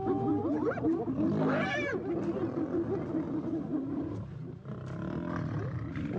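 A clamour of spotted hyenas and lions at a contested kill: hyenas chattering and giving rising and falling calls over low lion growls and snarls.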